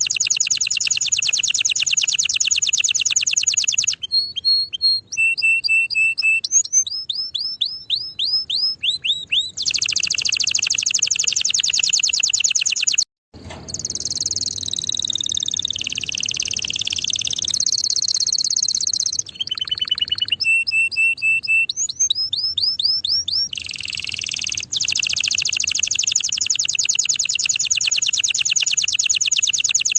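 Domestic canary singing a long, continuous song. Fast high trills alternate with phrases of separate, quickly repeated sliding whistled notes, with a brief silent break about 13 seconds in.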